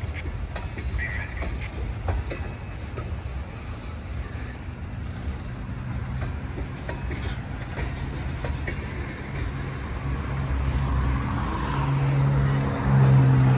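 Freight train of tank cars rolling past: a steady low rumble of wheels on rail with scattered clicks. A low steady hum builds through the second half and grows louder near the end.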